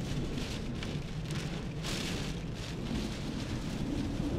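Heavy rain and wind beating on a car, heard from inside the cabin. The rain comes in repeated surges over a steady low rumble.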